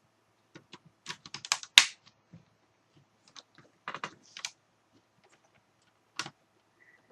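Sharp plastic clicks and taps from handling computer parts during reassembly. A quick run of clicks comes about a second in, the loudest near two seconds, then a few more around four seconds and a single one near six seconds.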